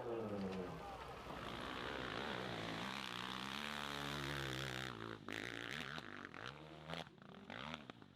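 Hill-climb motorcycle engine revving hard, its pitch falling and then climbing with the throttle. About five seconds in it breaks up into short blips of throttle and fades out toward the end.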